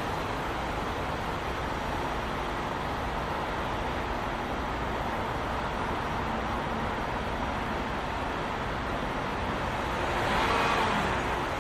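Steady road-vehicle and traffic noise that swells briefly near the end and then settles back.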